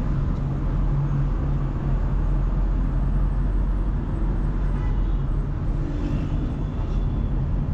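Steady engine hum and road noise from a car driving through city traffic, an unbroken low drone.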